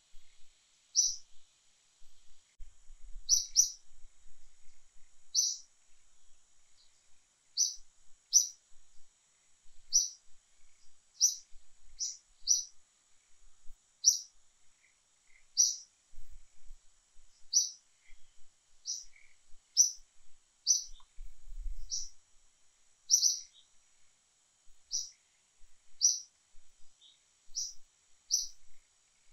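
A bird repeating a short, high chirp at uneven intervals, roughly once a second, over a faint steady hiss.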